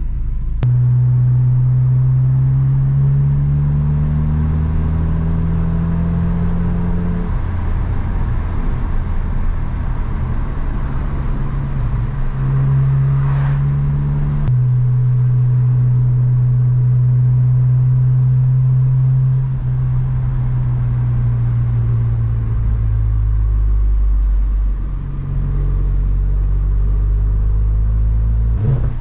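Volkswagen GTI's turbocharged 2.0-litre four-cylinder engine under way: the revs climb for several seconds, drop back, pick up again and hold steady, then ease off near the end. A faint high whine comes and goes.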